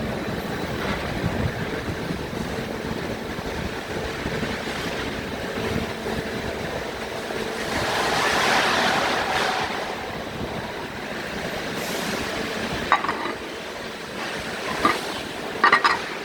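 Steady vehicle noise with a low hum, swelling into a louder rushing about eight seconds in, then a few sharp clicks near the end.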